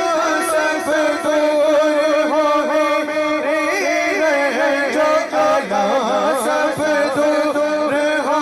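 Devotional naat music: a melismatic vocal line winding up and down in pitch over a steady held drone.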